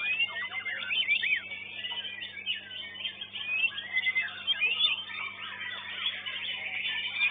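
Several caged songbirds singing at once in quick, overlapping whistled phrases and chirps, over a steady low electrical hum.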